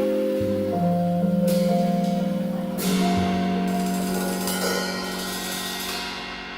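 Live instrumental music from piano and drum kit: held chords with cymbal crashes about one and a half and three seconds in, the sound easing down toward the end.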